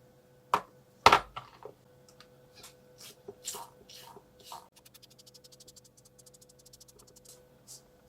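Workbench handling sounds: two sharp knocks about half a second apart, the second the loudest, then scattered light taps, then a fast, even run of clicks at about nine a second for some two and a half seconds. A faint steady hum runs underneath.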